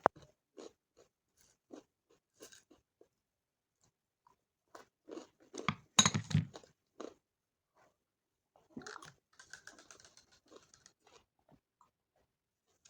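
A person biting and chewing crunchy food, with scattered soft crunches, one loud crunching bite about six seconds in, and a run of crackly chewing a few seconds later.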